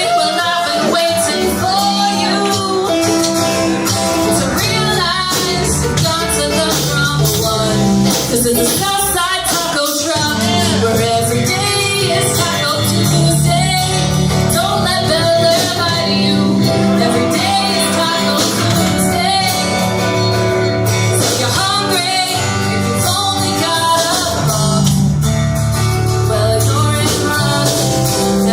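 Live band playing a rock song: a singer over guitar and bass, loud and steady throughout.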